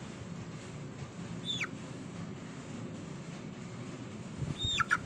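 Poultry-yard background with a steady low hum. About a second and a half in comes a single high chirp falling in pitch, and a run of similar quick falling chirps from birds in the flock begins near the end.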